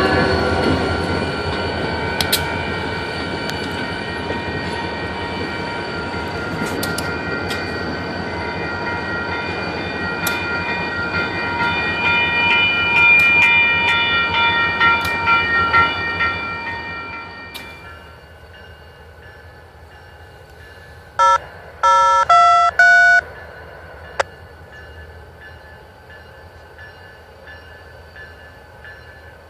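Freight train rolling past just after its horn stops, a steady rumble with high squealing tones from the wheels, fading away after about 17 seconds. A few short beeping tones come near the end.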